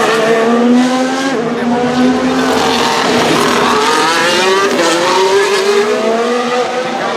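Formula 1 cars' 1.6-litre turbocharged V6 hybrid engines running at close range. The pitch drops and climbs in several sweeps as the engines rev up and down through gear changes.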